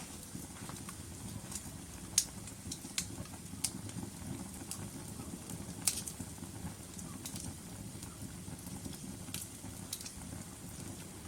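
Log fire burning in a fireplace: a steady low rumble of the flames with scattered sharp crackles and pops from the wood, the loudest pops about two and six seconds in.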